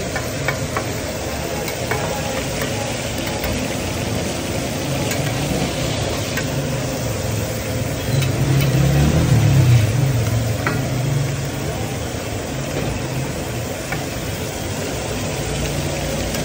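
Liver (kaleji) sizzling as it fries on a flat iron tawa, with a metal spatula clicking against the griddle now and then. A low engine rumble swells about eight seconds in and fades a couple of seconds later.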